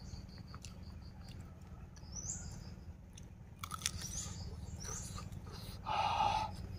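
A person chewing crispy fried round tofu, with short crunching clicks and a louder burst of mouth noise about six seconds in. Birds chirp repeatedly in the background.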